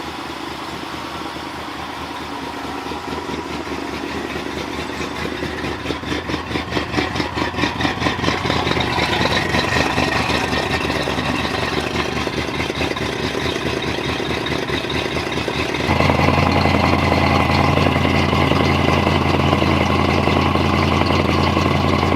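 The V8 engine of a 1960 Ford Thunderbird running, its pulsing exhaust beat growing louder and faster as it is revved. About two-thirds of the way through, the sound jumps to a louder, steady drone.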